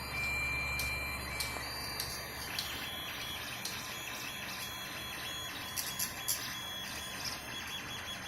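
3D printer at work: its stepper motors whine in steady tones that jump to a new pitch as the moves change, with scattered small clicks. A low hum sounds in the first couple of seconds.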